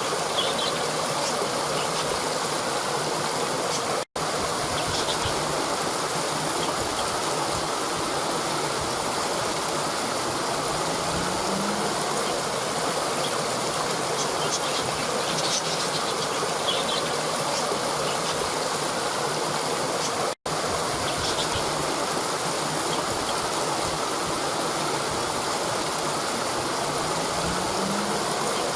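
Waterfall pouring over rocks: a steady rush of water, with short high chirps scattered through it. The sound cuts out for an instant twice.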